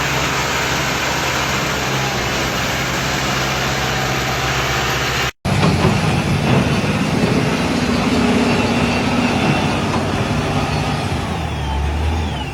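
A heavy vehicle's engine runs steadily. It cuts out abruptly about five seconds in, then comes back as a rougher, more uneven engine sound with a deep rumble near the end.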